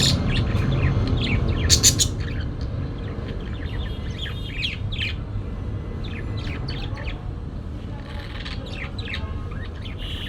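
Parakeets chirping in a busy run of short, quick calls over a steady low rumble, with a couple of sharp clicks in the first two seconds.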